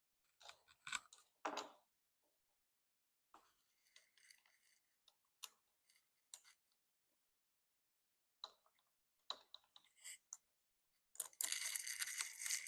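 Faint scattered clicks and taps of small metal motorcycle parts being handled, here the front brake lever clamp going on the handlebar. About eleven seconds in, a couple of seconds of continuous rattling.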